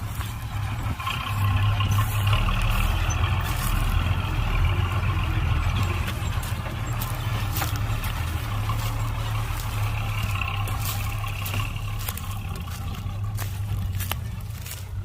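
Heavy diesel machinery running with a steady low engine rumble that gets louder about two seconds in and eases off after about six seconds, with a few sharp clicks over it.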